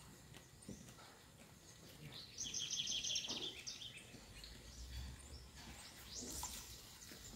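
A bird calling a rapid trill of repeated high notes for about a second, over quiet outdoor background noise with a faint low rumble afterwards.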